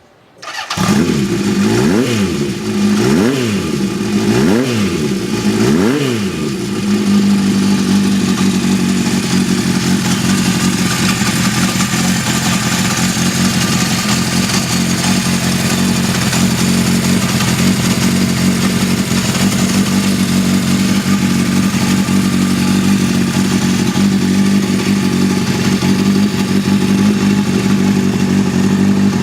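Honda CB750F II's inline-four engine starting up and being revved four times in quick blips, then settling into a steady idle.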